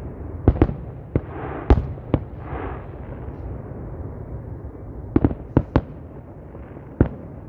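Fireworks going off: a string of sharp bangs, five in the first two and a half seconds, a quick cluster of four a little past five seconds in, and one more near the end, over a steady low rumble.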